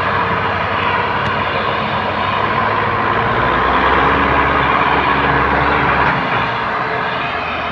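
Tractor diesel engine running hard under load, getting louder in the middle and easing off a little after six seconds in.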